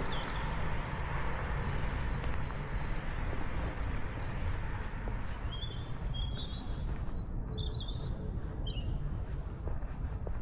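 Small birds chirping in short, high calls, most of them in the second half, over a steady low background rumble. A hiss in the first half fades out about halfway through.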